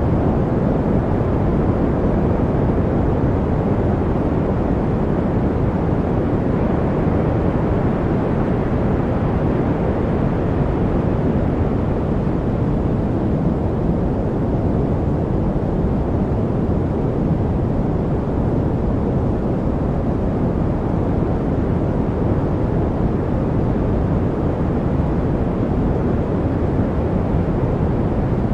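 Steady white-noise track: an even, deep hiss with no changes, most of its strength low down and fading in the highs, closer to brown noise than true white noise.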